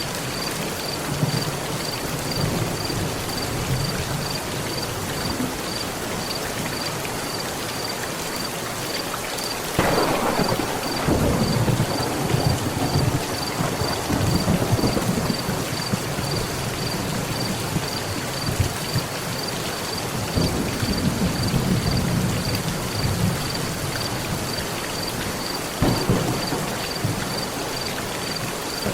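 Steady heavy rain on a metal roof, with thunder: a clap about ten seconds in that rolls on for several seconds, another long low rumble a little past the middle, and a sharp crack near the end.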